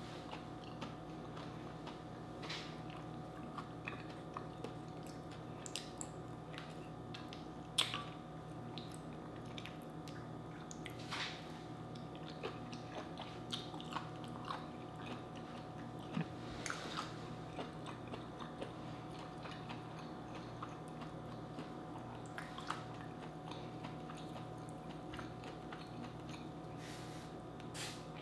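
Close-miked chewing of a mouthful of boiled vegetables, with wet mouth clicks and smacks scattered throughout, over a steady low hum.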